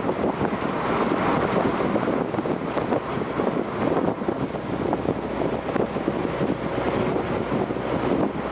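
Mazda MX-5's four-cylinder engine running through an RS Factory Stage 'Gentle' aftermarket exhaust, heard with the top down: a steady exhaust note mixed with wind rush and road noise.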